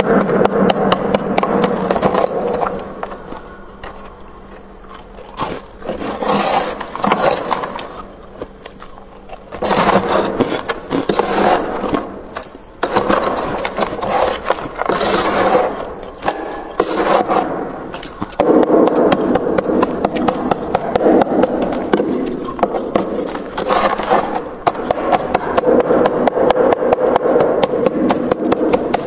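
Freezer frost being scraped, rapid rasping strokes repeated over and over, easing off twice into quieter spells before picking up again.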